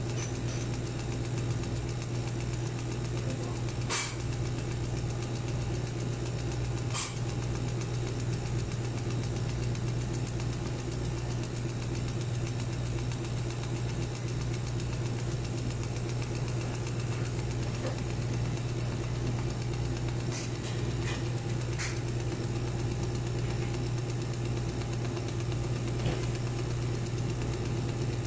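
CNC wood router running steadily, a low even machine hum, with a few sharp clicks: one about four seconds in, another about three seconds later, and a couple more late on.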